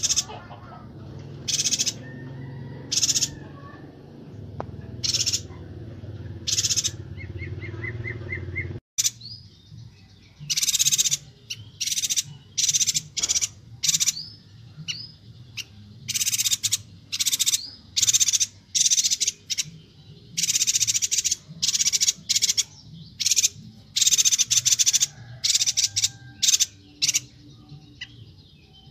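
Yuhina calling over and over in loud, short, high chattering calls, spaced out at first and then coming thick and fast in runs after about nine seconds.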